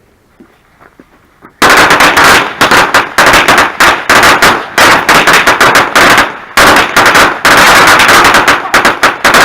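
A string of firecrackers going off: after about a second and a half, dozens of sharp bangs crackle in rapid, irregular succession, broken by brief pauses.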